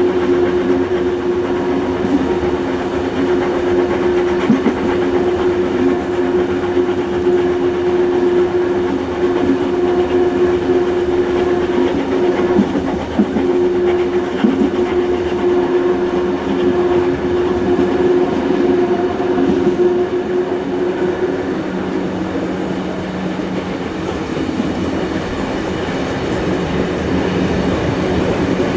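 Steam-hauled heritage train, NSW locomotives 3526 and 3265 with their carriages, heard on board while running along the line: steady rolling noise with clickety-clack over the rail joints and a continuous hum that shifts lower about three-quarters of the way through.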